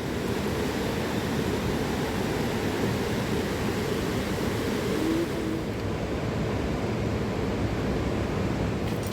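A mountain river rushing steadily.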